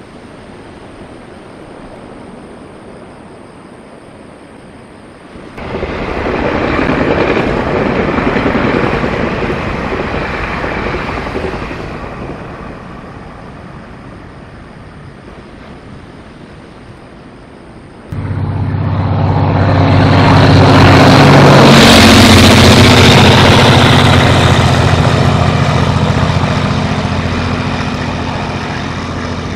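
A diesel locomotive hauling passenger coaches passes close by: its engine runs with a steady low drone under the rush of wheels on rail, building in about two thirds of the way in, peaking soon after and slowly fading. A shorter rush of passing noise rises and falls about six seconds in.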